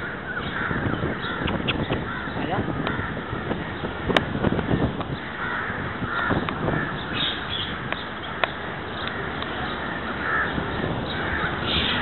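Harsh cawing bird calls, several short ones scattered through, over a busy background with a couple of sharp clicks.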